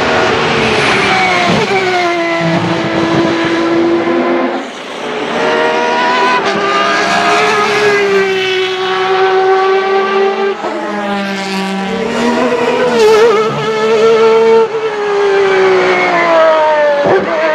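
Ferrari 333SP's V12 racing engine running hard under load, its high-pitched note holding steady, climbing, then dropping several times as the car shifts gears and lifts off the throttle.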